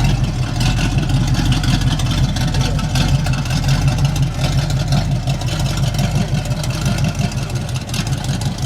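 Dodge Viper SRT-10's V10 engine idling steadily, a deep even rumble with no revving.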